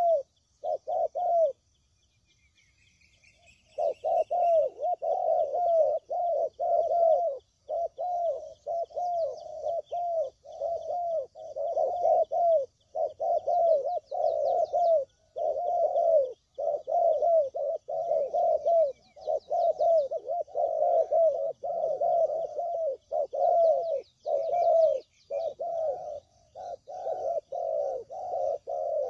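Spotted doves cooing, one call closely following another and overlapping as from several birds. After a short break near the start the calls run on without pause. Faint high chirping of small birds sits behind them.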